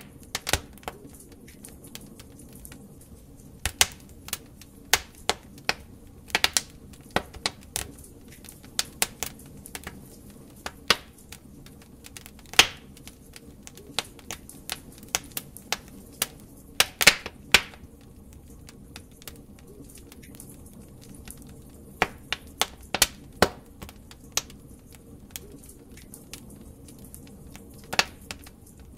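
Log fire crackling in a fireplace: irregular sharp pops and snaps, some louder than others, over a low steady hiss of the burning wood.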